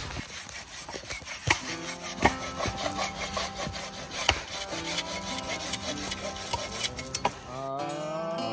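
Rapid repeated scraping strokes, with steady low tones joining in about two seconds in.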